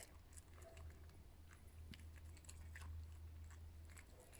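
Young red fox chewing and crunching food, faint scattered crunches over a low steady hum.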